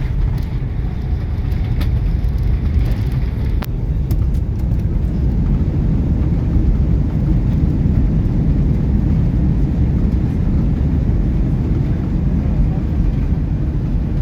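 Steady low rumble of an Airbus A310 airliner's engines and airflow heard inside the passenger cabin during the landing, with a few light clicks in the first few seconds.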